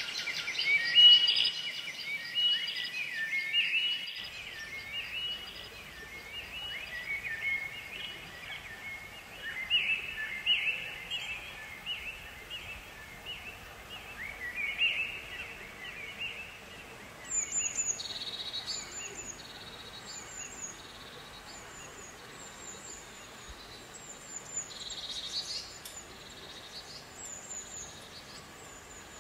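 Birds singing: a busy mix of chirps and warbling notes for the first half, then a short, high call repeated about once a second.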